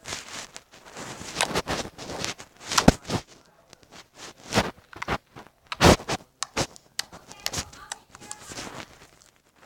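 Homemade slime being handled: irregular bursts of noise, with two louder snaps about three and six seconds in.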